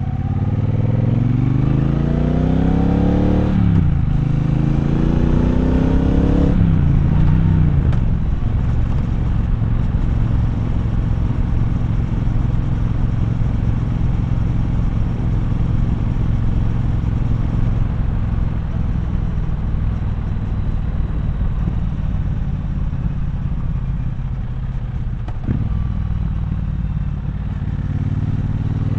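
Triumph Bonneville Bobber's 1200 cc parallel-twin engine accelerating hard through two gears, its pitch rising, breaking at the shift about three and a half seconds in, and rising again. Revs drop about six and a half seconds in, and it then runs steadily at lower revs.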